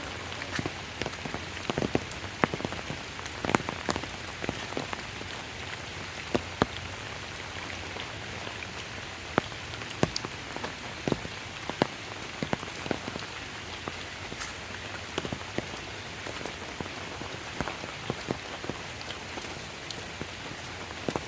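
Steady rain falling, with frequent sharp, irregular taps of drops striking close by.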